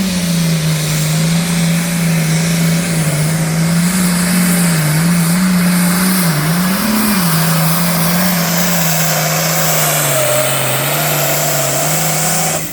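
A pulling tractor's engine running hard under load at high, near-steady revs, its pitch wavering slightly. The sound drops away sharply near the end.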